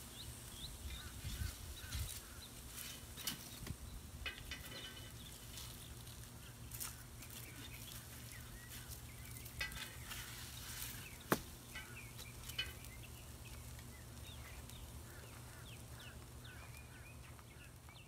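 Quiet outdoor ambience: small birds chirping over and over above a low steady hum, with a few faint clicks and one sharper tick about eleven seconds in.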